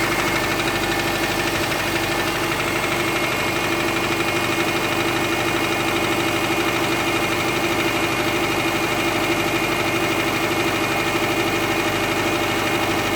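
Subaru Forester's naturally aspirated flat-four boxer engine idling steadily with a fast, even knock, which the owner suspects comes from the fourth cylinder.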